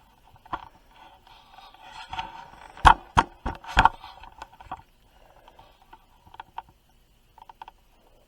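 Handling noise as objects are set down: light scraping and a quick run of four sharp knocks a few seconds in, then a few faint ticks.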